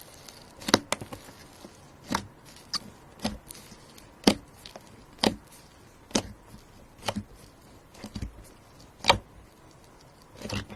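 Slime being handled by hand, giving sharp crackling pops about once a second, some in quick pairs.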